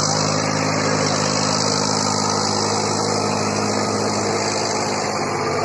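Eicher 380 tractor's diesel engine running steadily at a constant speed.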